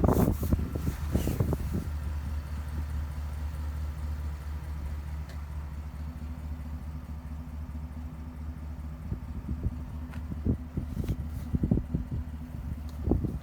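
GMC Sierra AT4X pickup's engine idling with a steady low hum, with a few low thumps in the first second or so and scattered knocks and clicks in the later seconds.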